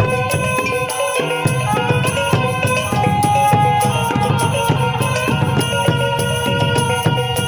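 Minangkabau traditional music: talempong gong-chimes struck in a quick, even rhythm under held notes from pupuik reed pipes.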